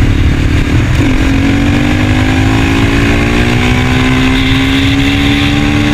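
KTM Duke 390 Gen 3's single-cylinder engine pulling under acceleration. Its pitch drops briefly about a second in as it shifts up, then climbs steadily. Low wind rumble on the microphone runs underneath.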